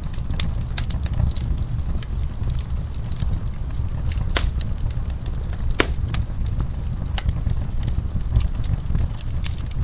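Wood fire burning in a fireplace: a steady low rumble with scattered crackles and two sharper pops a little before and after the middle.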